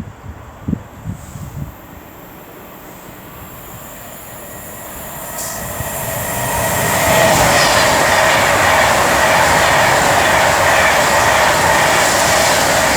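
Class 390 Pendolino electric train passing through the station at speed. Its rush of wheel and air noise swells over several seconds and then holds loud and steady. A few soft thumps come just before it builds.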